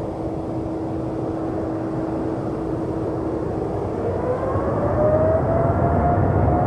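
Boeing 787-9 jet engines running with a steady whine, then rising in pitch and growing louder from about four seconds in, typical of thrust spooling up for the takeoff roll.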